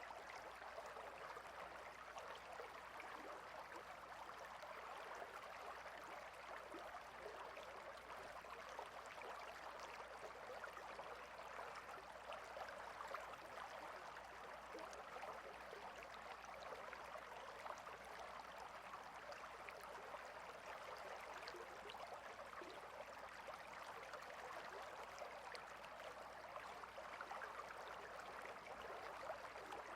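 A small stream flowing, a faint, steady babble of water.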